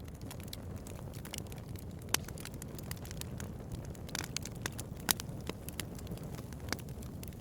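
Bonfire crackling: a dense run of small, sharp pops over a steady low rush of the flames, with two louder pops about two and five seconds in.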